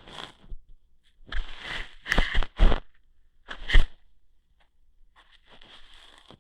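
Close-up ASMR ear-hair plucking sounds: several short bursts of scratchy rustling with sharp snaps, the loudest in the middle, and a fainter scraping near the end.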